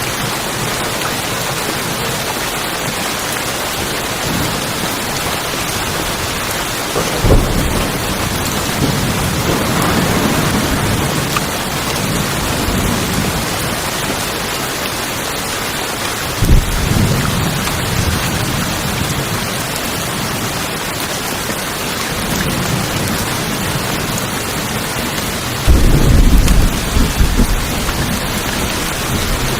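Steady heavy rain drumming on tin roofs, with three rolls of thunder that break in suddenly about 7, 16 and 26 seconds in and rumble away over a few seconds, the last the loudest and longest.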